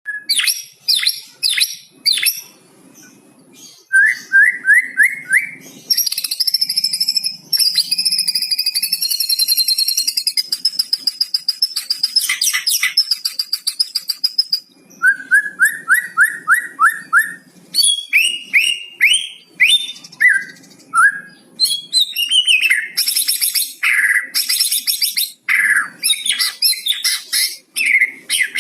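White-rumped shama (murai batu) singing a varied song that includes mimicry of the cucak cungkok. The song has runs of about five quick rising whistles, a long buzzy trill that lasts several seconds, and many sharp high chips.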